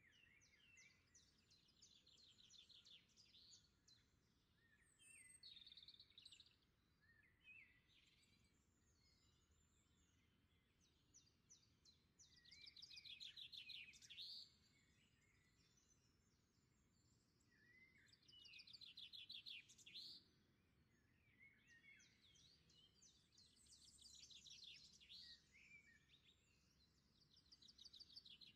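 Faint birdsong: birds singing rapid trills and chirps in short phrases every few seconds, with louder phrases about halfway through.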